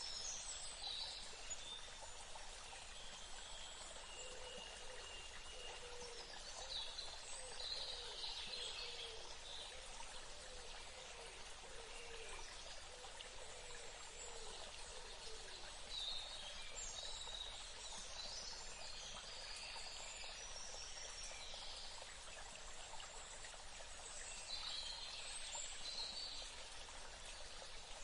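Forest ambience: a steady, faint rush of running water with birds calling in short clusters of chirps every few seconds, and a lower warbling call in the first half.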